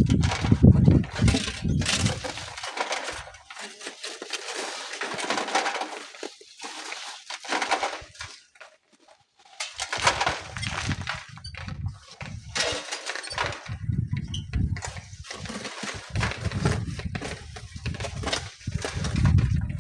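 Strong gusting wind buffeting the microphone in low rumbling gusts, with scattered knocks and rattles of sand and stones. It eases briefly about eight seconds in.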